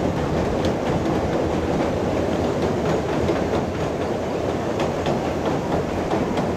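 Passenger train rolling across a steel girder bridge: a steady, loud rumble of wheels on rail, with scattered light clicks of wheels over the rail joints.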